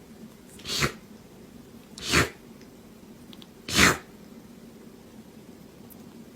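A pet animal sneezing three times, short sharp sneezes about a second and a half apart.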